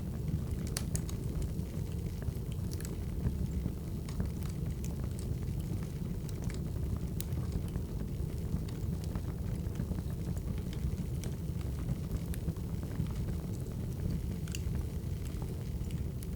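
Crackling wood fire: a steady low rumble of burning logs with scattered small sharp pops and snaps.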